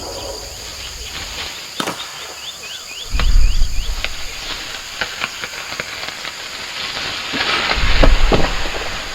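Rainforest ambience: insects chirping in quick repeated calls, with scattered sharp cracks and two loud deep rumbles, one about three seconds in and one near the end.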